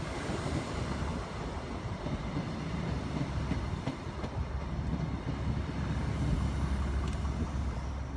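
Steady rumble and hum of a passenger train standing at the platform with its engines running, the low rumble swelling somewhat after about five seconds.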